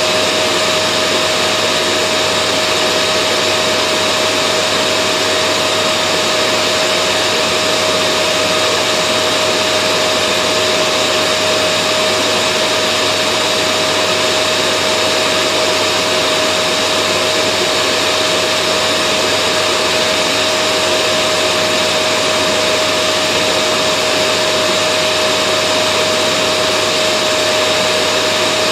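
Vacuum cleaner running steadily: a constant rush of air with a steady motor whine held at one pitch, with no change in level.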